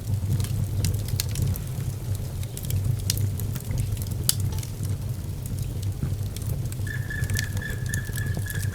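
Wood fire burning in a fireplace: a steady low rumble of flames with scattered sharp crackles and pops. Near the end a thin, steady high whistle sounds for about a second and a half.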